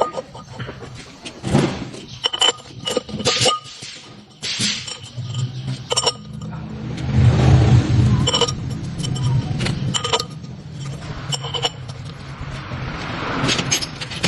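Metal parts and tools clinking and scraping, each strike ringing briefly, over a low rumble that swells loudest a little past the middle.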